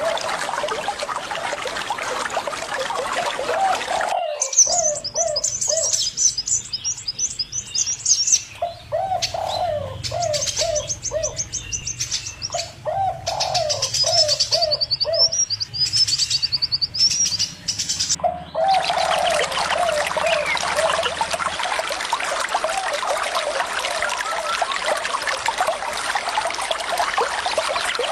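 Birds calling over running water: a repeated series of short, low notes and, in the middle stretch, high rapid chirping and trills. The rush of water cuts out abruptly about four seconds in and comes back just as suddenly after about eighteen seconds, like a splice.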